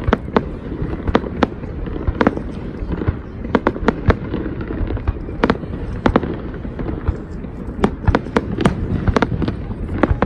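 Fireworks display: many sharp bangs and cracks of bursting shells, several a second at irregular spacing, over a continuous low rumble.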